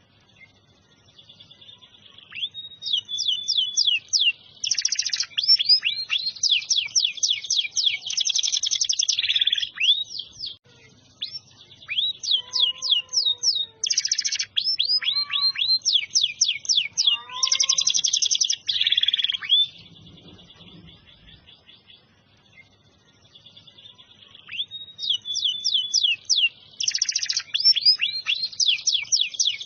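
Domestic canary singing in long, loud phrases of fast trills and sweeping high notes. The song pauses briefly near the start and again about two-thirds of the way through.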